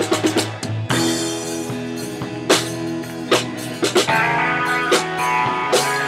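Rock song played by a band: sustained guitar chords over a drum kit, with sharp drum hits recurring roughly every second.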